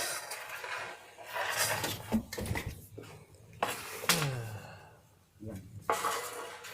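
Irregular knocks and rustling scrapes, several in a row.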